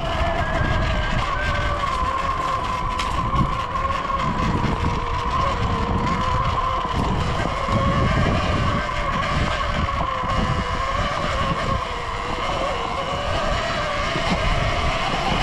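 Surron Ultra Bee electric dirt bike's motor whining while riding, its pitch wavering slightly with speed, over a low rumble.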